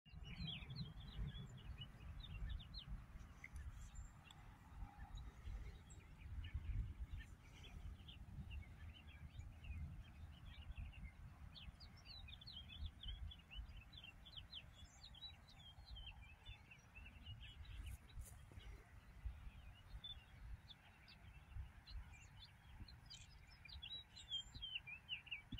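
Faint chirping of small birds, many short calls throughout, over a low, fluctuating rumble.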